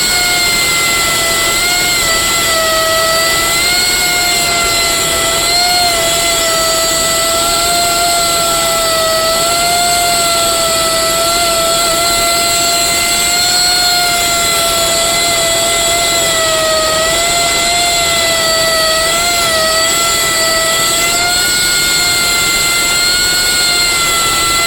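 Machinery running steadily with a high whine that wavers slightly in pitch, over a loud, even hiss of machine noise.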